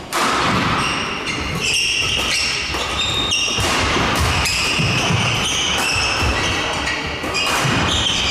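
Badminton doubles rally in a hall: sharp racket-on-shuttle hits and footfalls, with many short, high squeaks of court shoes on the floor, over voices in the hall.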